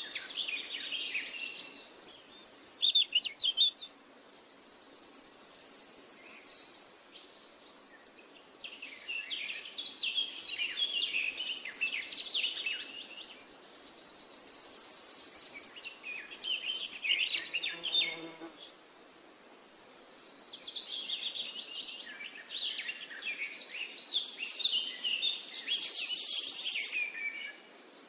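Songbirds chirping and singing in rapid high phrases, with a high, steady, buzzing trill in a few spells; the birdsong comes in bursts of several seconds separated by brief quieter gaps.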